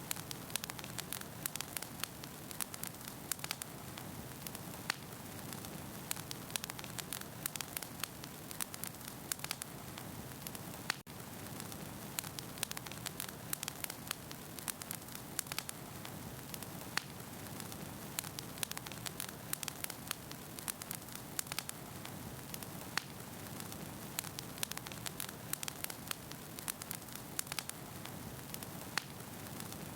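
Wood fire burning in a fireplace: a steady hiss with frequent sharp crackles and pops of firewood, and one momentary dropout about a third of the way through.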